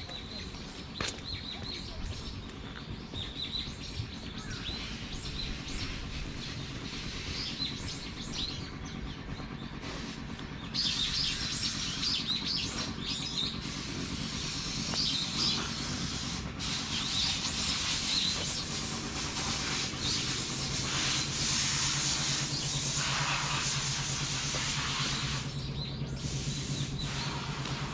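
Small birds chirping and calling over a steady hiss of outdoor background noise, which grows louder about eleven seconds in.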